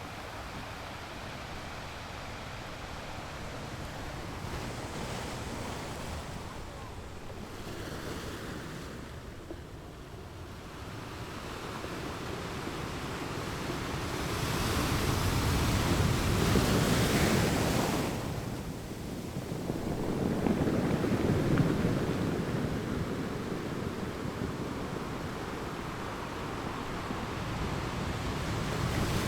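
Ocean surf: waves breaking and washing up a beach, a steady wash that swells to a peak a little past halfway, falls back briefly, then builds again.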